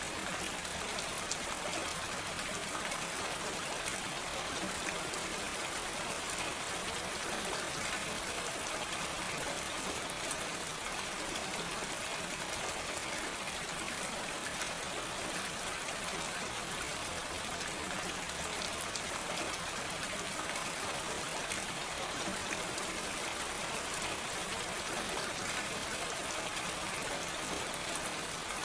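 Steady gentle rain with no thunder, a constant hiss of many small drops with faint scattered patters.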